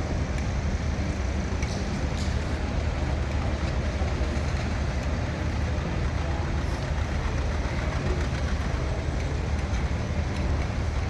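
Steady low engine rumble from slow-moving parade machinery, under a continuous haze of outdoor noise.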